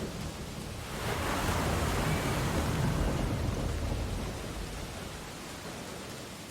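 Ocean waves on a beach: one wave breaks and washes in, swelling about a second in and easing off over the next few seconds, over a steady hiss of surf.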